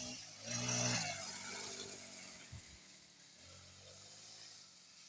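Small dirt bike engine running, swelling about a second in as it passes, then fading away.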